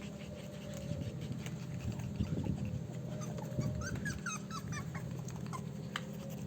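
A dog whimpering and making soft low growls, with a cluster of short, high squeaky cries a little past the middle, over a steady low hum.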